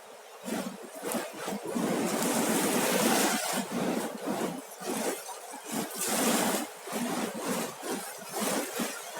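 Sea waves breaking and washing up a beach: a continuous rushing surf that swells louder about two seconds in and again about six seconds in.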